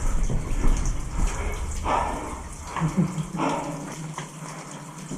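Footsteps splashing through shallow water in an echoing concrete stormwater drain tunnel, an uneven series of wet steps. A low rumble underneath drops away about three seconds in.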